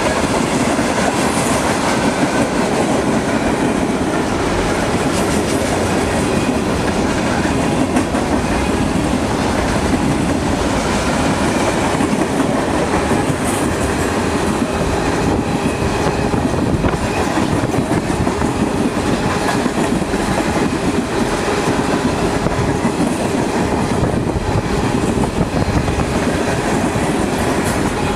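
Freight cars of a mixed freight train rolling past: a steady, loud rumble of steel wheels on rail, with a continuous clatter of wheel clicks over the rail joints.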